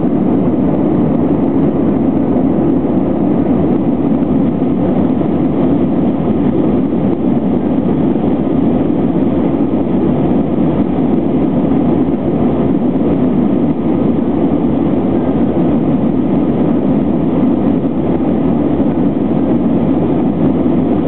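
Airbus A320 climbing after takeoff, heard inside the passenger cabin: a steady low rush of jet engine and airflow noise, unchanging throughout.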